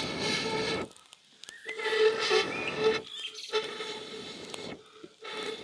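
A machine hissing and humming in bursts, stopping and starting about four times, with birds chirping in the gaps.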